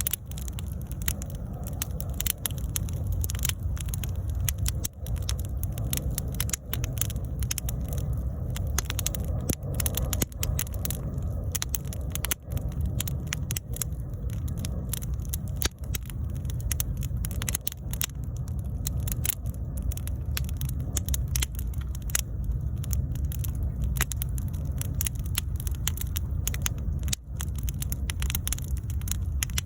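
Wood bonfire burning, crackling with frequent irregular sharp pops over a steady low rush.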